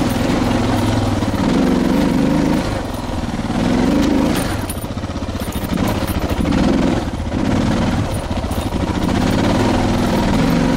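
Suzuki DR650's single-cylinder engine thumping along at low speed on a rough trail, the throttle easing off and opening up again several times.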